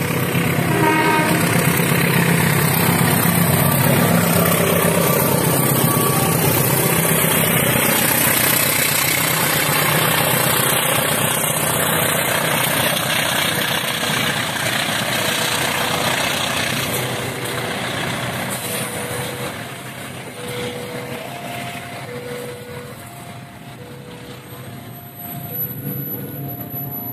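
Passenger train running past at close range, its wheels rumbling over the rails as the carriages go by, loud at first and fading as the train moves away. Throughout, a level-crossing warning signal sounds a repeating two-tone chime, plainest as the train noise dies down.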